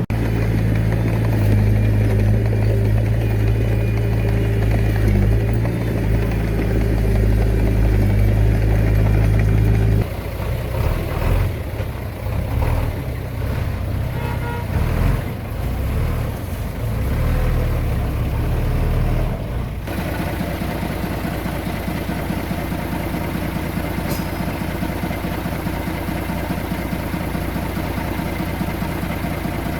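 Diesel engine of heavy earthmoving machinery running, a steady note at first. About ten seconds in it turns uneven, rising and falling with short knocks. Near twenty seconds it changes abruptly to a different steady engine note.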